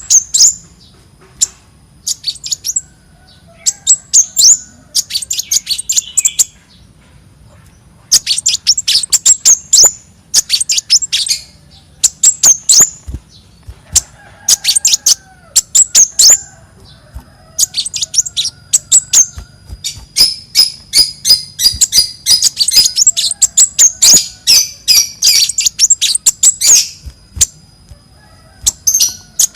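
Song of the konin, a small songbird: bursts of rapid, sharp, very high chirps, each a second or two long with short gaps between, running into a longer, denser stretch of chattering in the second half.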